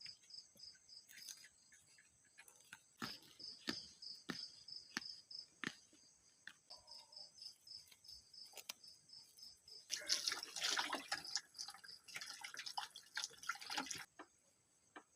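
Crickets chirping in a steady pulsing trill, with scattered clicks and knocks. From about ten seconds in, some four seconds of running, splashing water.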